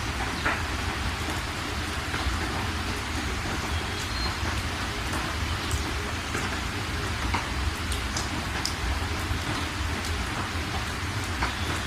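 Steady rain falling on a surface, a dense even hiss with scattered sharper drips, over a constant low rumble.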